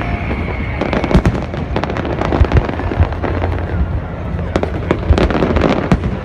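Fireworks display: a fast, dense string of bangs and crackles over a continuous low rumble, with louder clusters about a second in and again near the end.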